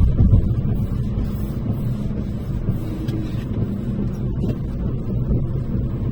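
Car driving at road speed, a steady low rumble of tyres, engine and wind heard from inside the cabin.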